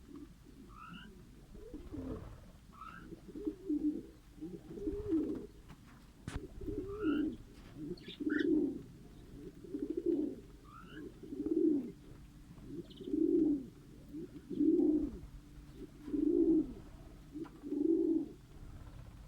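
A dove cooing over and over, a low call about every one and a half to two seconds, with short rising chirps from small cage birds above it.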